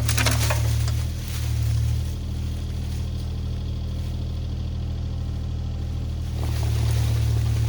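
Diesel engine of a compact construction machine working under changing load. Its low hum dips about a second in and rises again near the end. A few sharp cracks come right at the start.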